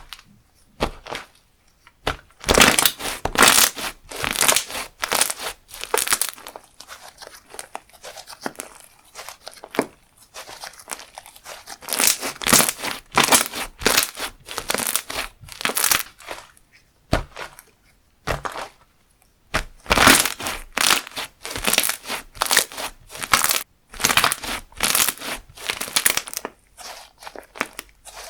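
Slime being squished, stretched and pressed by hand, making crackly, crinkling sounds about twice a second in runs with short quieter pauses.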